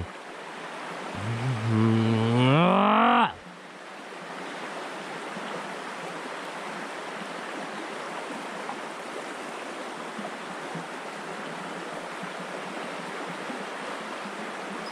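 A long, low drawn-out call about a second in, rising in pitch over two seconds before cutting off, followed by the steady rush of river water.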